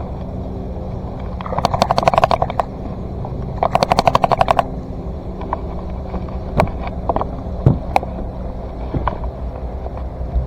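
Boat motor running steadily, with two bursts of rapid clicking about a second long each, a couple of seconds in, and a few single clicks later.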